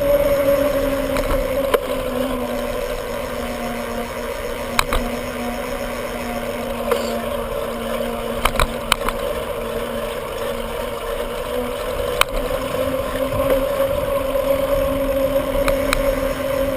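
Bicycle in motion: a steady two-tone hum that drifts slowly in pitch, with a handful of sharp clicks from the bike over the ride.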